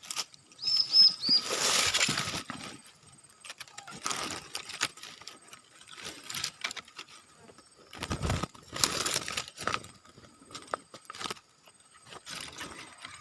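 Three quick, high chirps of a small bird about half a second in, then bouts of rustling and scattered clicks, the loudest soon after the chirps and again about eight seconds in.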